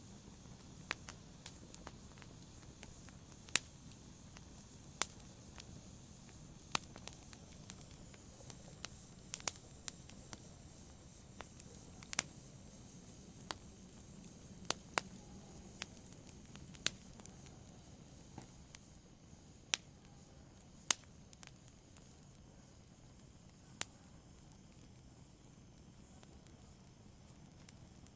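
Wood logs burning in a fireplace: sharp, irregular pops and snaps of the crackling fire over a faint low rustle of flames, growing sparser in the last few seconds.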